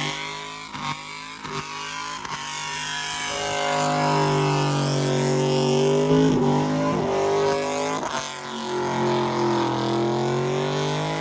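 Vehicle engine held at high revs during a burnout, its pitch sagging briefly and climbing back a little after eight seconds in. A few sharp knocks come in the first couple of seconds.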